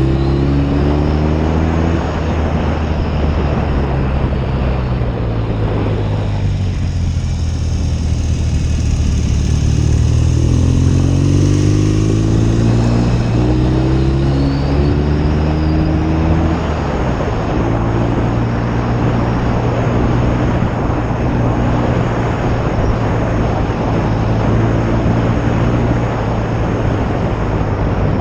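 1972 BSA Lightning 650's parallel-twin engine running on the road, with wind rush over it. The engine note falls and eases off early on, rises as the bike accelerates about ten seconds in, then settles into a steady cruise for the second half.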